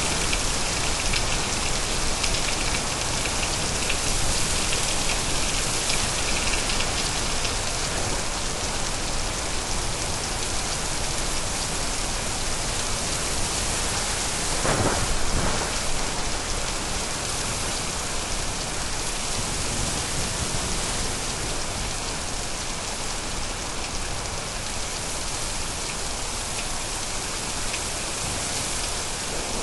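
Steady, heavy rain falling in a thunderstorm, with a short, louder burst of thunder about halfway through.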